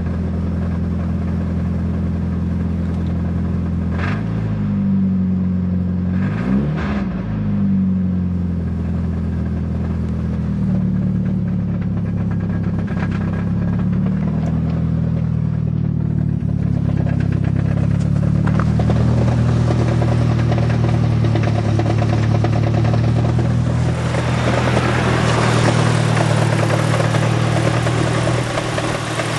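A 1990 Nissan 240SX's four-cylinder engine idles cold with the clutch let out, its speed dipping briefly twice in the first several seconds. Near the end a louder clattering noise rises over the engine note, the knocking that was traced to a loose flywheel.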